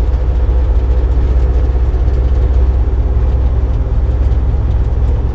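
Semi truck's diesel engine and road noise heard from inside the cab while driving on the highway: a steady low drone.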